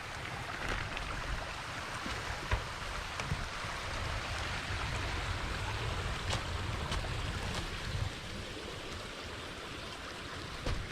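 Steady rushing of creek water that swells for several seconds in the middle, over a low rumble, with a few scattered clicks and rattles from the mountain bike.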